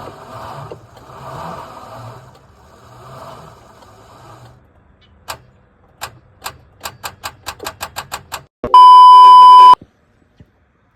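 Rebuilt Land Rover V8 running and fading out over the first four seconds. Then a run of ticks that speed up, ending in a loud, steady beep lasting about a second.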